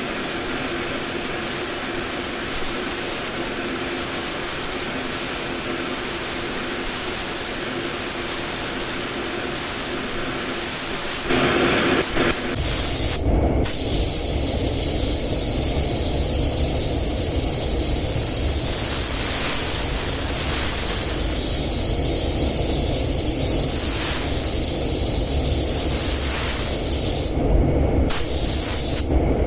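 Compressed-air paint spray gun hissing as it sprays. It runs as a steady hiss at first, then about eleven seconds in a louder, fuller spray starts with a low rumble underneath. The hiss drops out briefly a few times as the trigger is let go.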